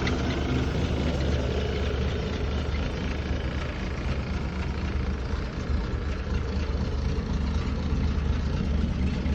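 Toyota FJ43 Land Cruiser's engine idling steadily just after a cold start, running smoothly at a slightly low idle because it is cold and the choke is off.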